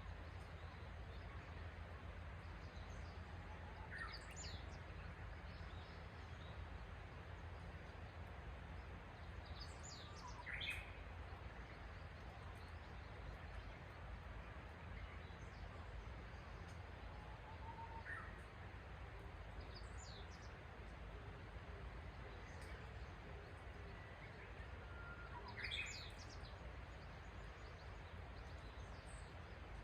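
Wild birds chirping on and off, short calls that fall in pitch, coming in small clusters every several seconds, over a steady low background rumble.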